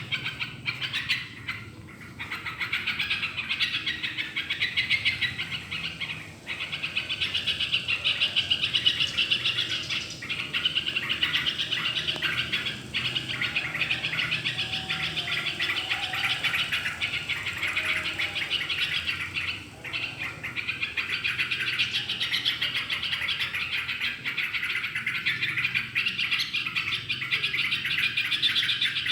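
Yellow-vented bulbul (trocok) singing in a dense, almost unbroken run of fast chirping notes, with only a few short pauses.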